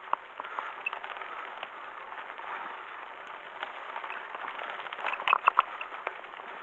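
Bicycle rolling over a dirt forest trail: steady tyre noise with scattered small clicks and crackles, and a short rattle of several louder knocks about five seconds in.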